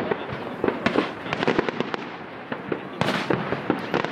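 Fireworks going off: a dense, irregular run of sharp bangs and pops, with a short hissing burst about three seconds in.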